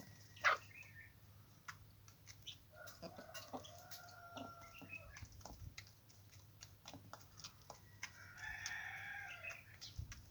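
Rooster crowing, one long call about three seconds in and another near the end, with scattered light clicks and taps between.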